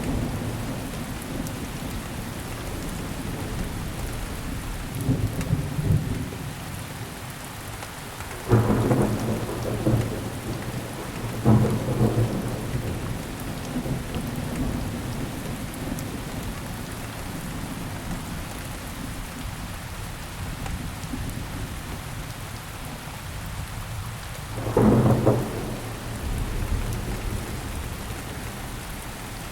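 Steady rainfall with thunder rolling through it: loud rumbles twice close together about a third of the way in and again near the end.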